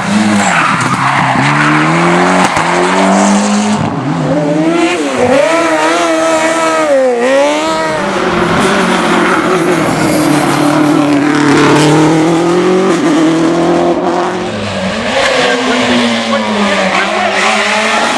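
Rally car engine revving hard, its pitch climbing and falling again and again as it changes gear and lifts off the throttle.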